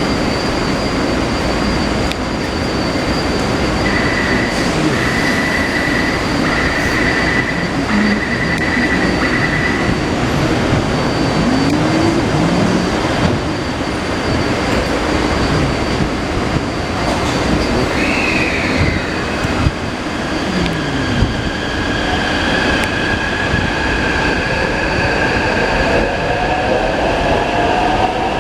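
Taipei Metro C381 train running on the track: a steady rumble with squealing tones from the wheels, and a whine that rises in pitch over the last several seconds as the train picks up speed.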